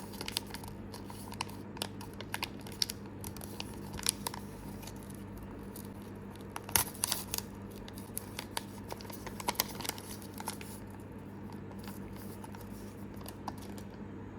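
A small plastic Mini Brands blind bag crinkling as it is handled and torn open: scattered soft crackles and ticks, with louder crackles about seven and ten seconds in.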